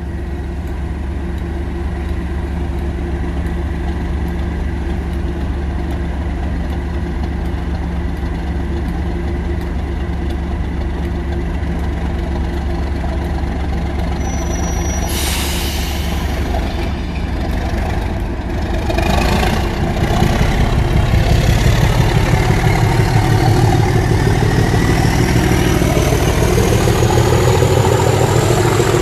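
Class 37 diesel locomotive's English Electric V12 engine running steadily, with a short hiss about 15 seconds in. Around 20 seconds in the engine opens up and gets louder, and a rising turbocharger whistle climbs in pitch to the end.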